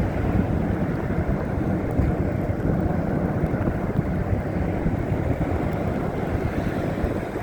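Wind buffeting a phone's microphone in a snowstorm: a steady, loud, low rumbling rush with no distinct events.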